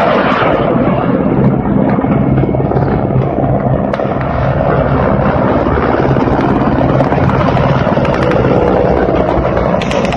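Mi-8 helicopter flying low, with a loud, steady run of fast rotor chop over the hum of its turbines.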